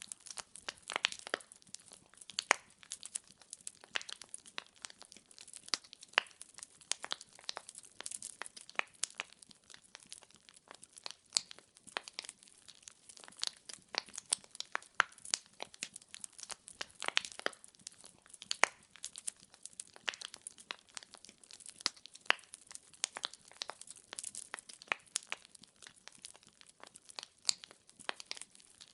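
Burning firewood crackling: a steady run of sharp, irregular pops and snaps, several a second.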